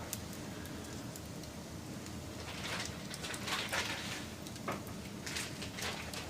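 Wood fire crackling, with irregular sharp pops and snaps over a steady low rush of burning. The pops come thickest a few seconds in.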